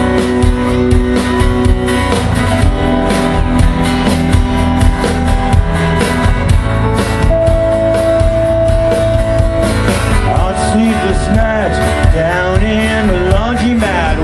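A rock band plays live: electric guitars and a steady drum beat in the instrumental intro of a song.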